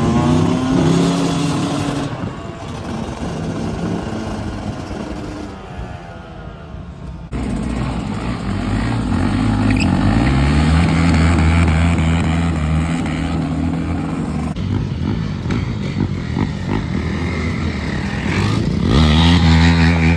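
Motorcycle engines revving, their pitch rising and falling. The sound changes abruptly about seven seconds in, and the engines are loudest near the end.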